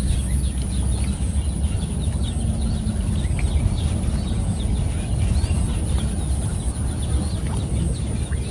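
Many short bird calls scattered throughout, over a steady low rumble.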